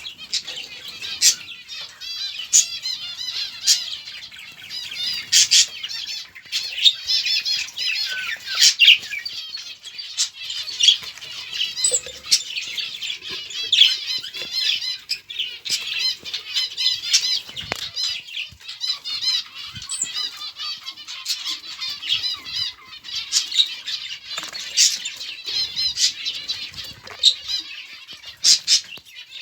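A flock of small cage birds chirping and chattering all at once, with frequent short wing flutters and clicks.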